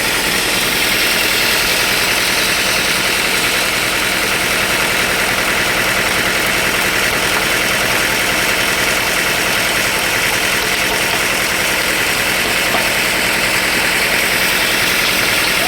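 Sawmill machinery running steadily and loudly, with no change through the stretch.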